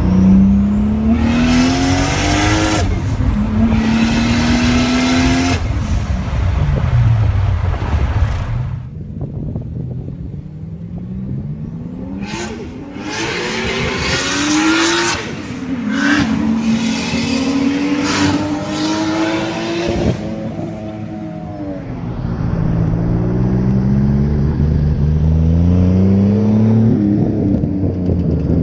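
Toyota 2JZ inline-six engine with a single Borg Warner S360 turbo at 12 psi, accelerating hard and shifting up several times, its pitch climbing with each pull and dropping at each shift. A loud rushing hiss rides over the hardest pulls, and the engine eases off into quieter stretches in between.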